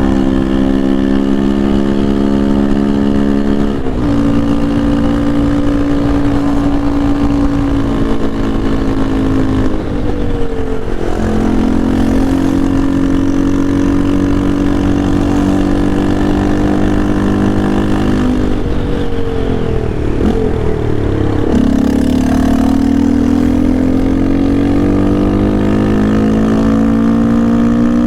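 Yamaha Lander 250's single-cylinder engine running under way, holding steady revs with dips in pitch a few times, then climbing steadily over the last six seconds as it accelerates.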